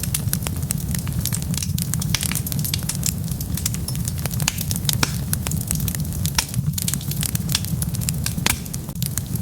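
Wood fire burning: a steady low rumble under many irregular sharp crackles and pops.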